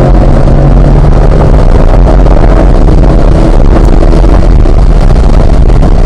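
Chevrolet C8 Corvette's mid-mounted 6.2-litre V8 accelerating hard at over 100 mph, shifting up once from fourth to fifth gear and pulling on, heard from inside the cabin over a steady rush of wind and road noise.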